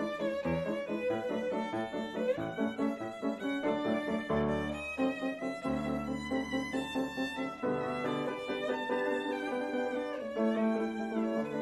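Violin music: a melody of quick, shifting notes over held lower notes.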